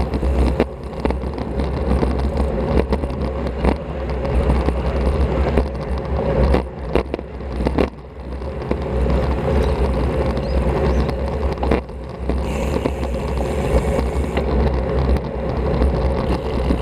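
Wind rushing over an action camera's microphone and road noise from a road bike riding at speed, with scattered short knocks and rattles.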